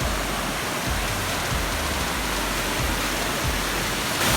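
Waterfall's steady rush of falling water, growing louder and brighter near the end.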